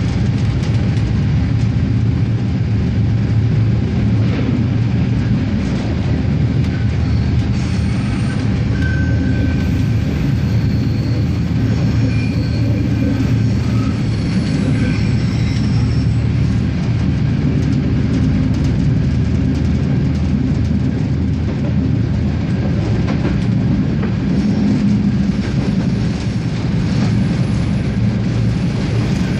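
Regional RegioSprinter diesel railcar running steadily along the line, a continuous deep rumble of engine and wheels on rail with faint occasional clicks from the track.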